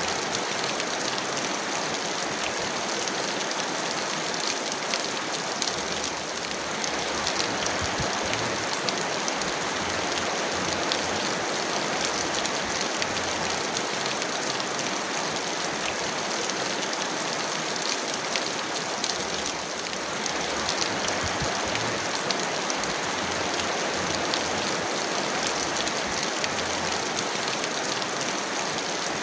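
Heavy rain falling steadily: a dense, even hiss of water scattered with fine ticks of individual drops.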